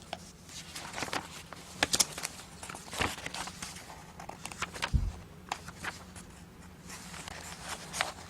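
Room tone of a large meeting chamber during a show-of-hands vote: scattered sharp clicks and rustles, with a low thump about five seconds in.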